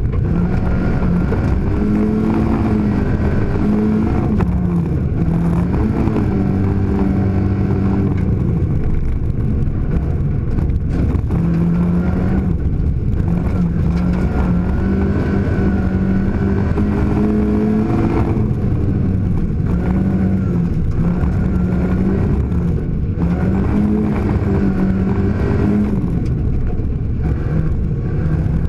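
Rally car engine heard from inside the cabin, driven hard: the revs climb and then drop back at each gear change, over and over.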